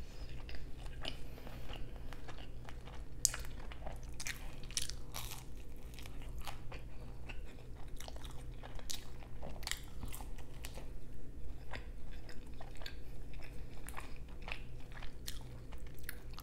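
Close-miked chewing of a cheesy shrimp pizza slice: irregular crisp crunches and wet mouth clicks, over a faint steady low hum.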